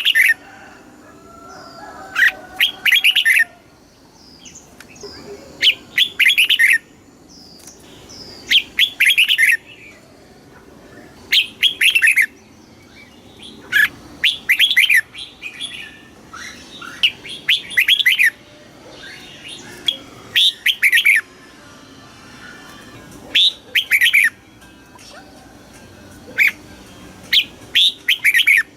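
Red-whiskered bulbul singing: short, loud phrases of a few quick, gliding whistled notes, repeated every one to three seconds.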